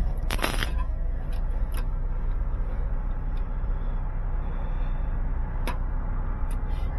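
Steady low rumble of a vehicle on the move, with a few sharp clicks and knocks scattered through it.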